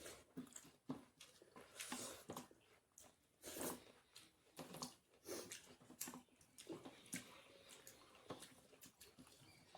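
Close-miked eating: irregular chewing and mouth smacking, with short wet clicks several times a second.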